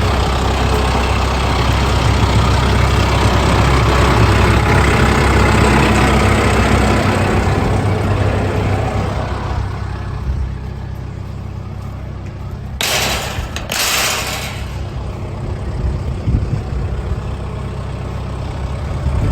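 Kubota M7060 tractor's four-cylinder diesel engine running steadily, louder at first and then easing to a lower, steadier note. Two brief rushes of noise come about two-thirds of the way through.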